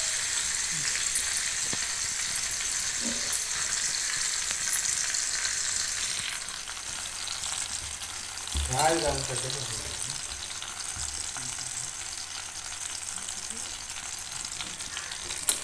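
Pumpkin cubes frying in hot ghee in a pan, a steady sizzle that eases after about six seconds. A short wavering pitched sound comes about halfway through.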